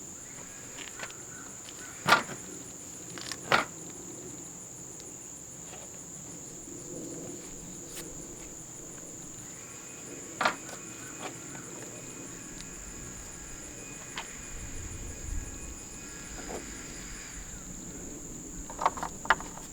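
Steady high-pitched chirring of insects. A few sharp knocks cut through it: one about two seconds in, another a second and a half later, one around ten seconds, and two close together near the end.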